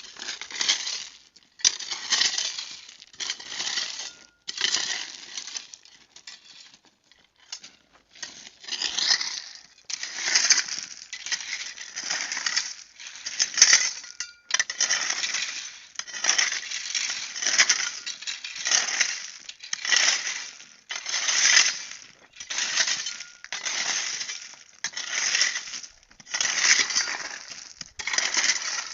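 Rhythmic strokes of a hand digging tool working gritty, stony soil, about one a second, each a scraping crunch.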